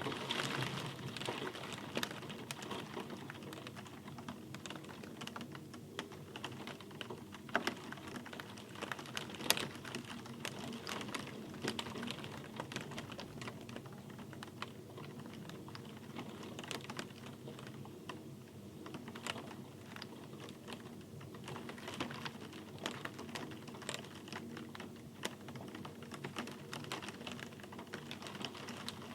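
Rain with drops landing in irregular sharp clicks on a hard surface, over a steady soft hiss.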